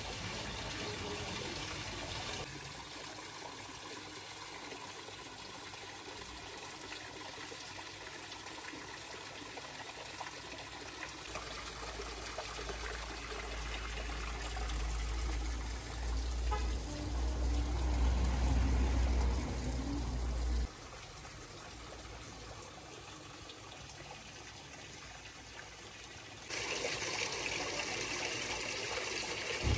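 Water trickling or lapping as a steady noisy wash, changing abruptly a few times; a low rumble comes in for a stretch midway.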